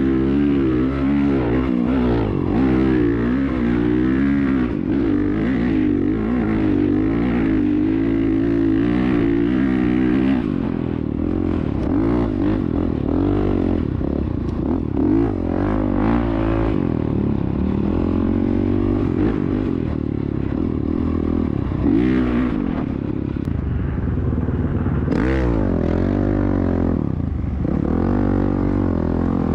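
Dirt bike engine revving up and down, its pitch rising and falling again and again as the throttle is worked, with some clatter. It eases off a little about ten seconds in.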